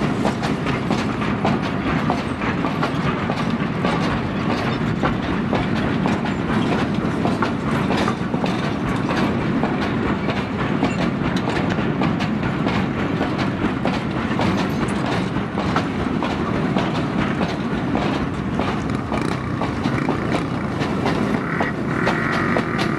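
Railway oil tank wagons of a long freight train rolling past close by: a steady rumble of wheels on rail with repeated clickety-clack over the rail joints.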